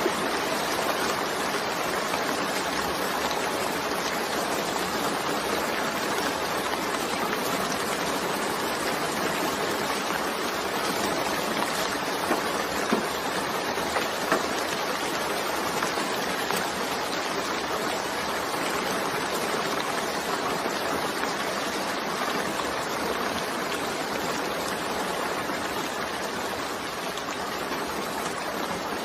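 Steady rain falling, a dense even hiss, with a few slightly louder drops near the middle.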